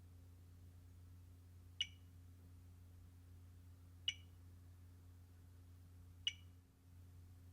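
Three short, high electronic beeps, evenly spaced about two seconds apart, over a faint steady low hum.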